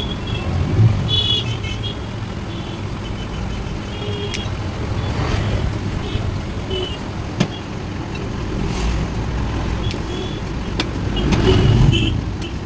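Steady low motor-vehicle rumble, swelling louder about a second in and again near the end as if vehicles pass, with scattered short high chirps and a few sharp clicks.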